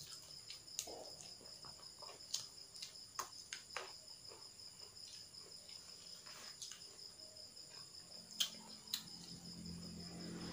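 Crickets chirping in a steady, evenly pulsing high trill, with scattered small clicks and crunches of eating at close range; one sharper click comes about eight seconds in.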